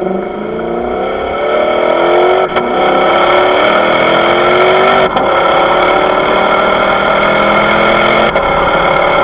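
Lexus GS F's 5.0-litre V8 accelerating hard through the gears. The engine note rises steadily and drops back briefly with each upshift, three times, about two and a half seconds apart.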